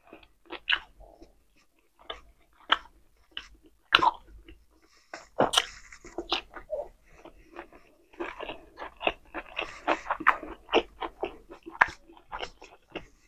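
A person chewing food with their mouth close to the microphone: irregular wet clicks and smacks of chewing, coming thickest in the second half.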